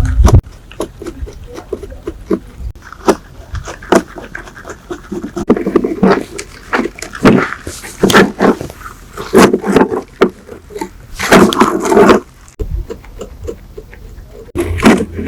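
Irregular scraping strokes, some lasting up to about a second, mixed with sharp clicks and knocks from hand work on parts.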